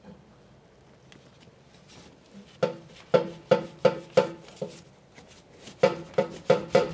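A run of sharp metal knocks on the truck's exhaust pipe, each ringing briefly: six blows at about three a second, then five more after a short pause, as the exhaust is worked loose from its hangers.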